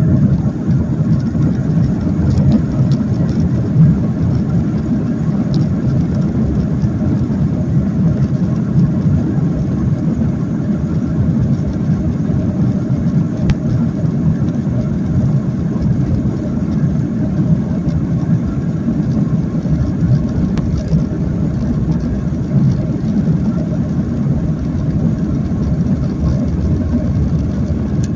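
Steady cabin noise inside a Boeing 737 in flight: a loud, even rumble of the jet engines and airflow, with no rise or fall.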